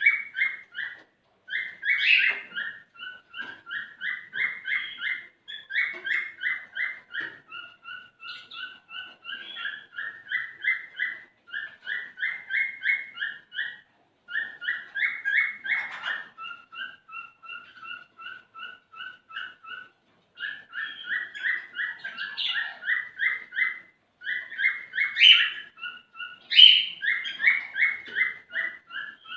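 Male cockatiel singing its courtship song: fast runs of short, repeated whistled notes in phrases of a few seconds with brief pauses between, a few louder rising calls standing out, sung to stimulate a female to mate.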